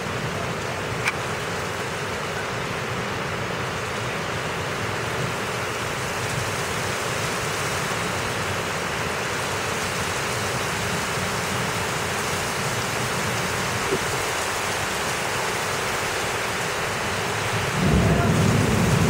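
Heavy thunderstorm rain falling steadily, with a couple of small ticks near the start. About a second before the end, a loud low rumbling sets in.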